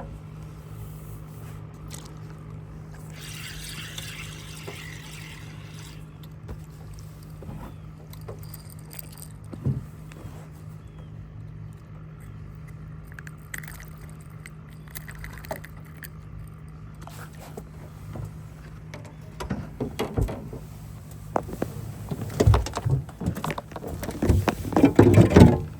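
A steady low hum on a fishing boat. In the last several seconds a run of knocks, thumps and rattles comes in, loudest near the end.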